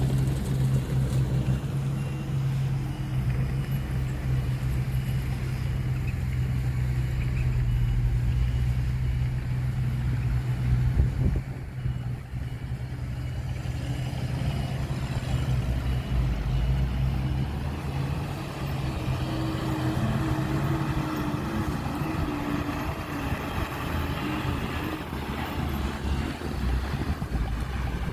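Heavy diesel engine of earthmoving machinery running with a steady low drone. Its note changes about three-quarters of the way through.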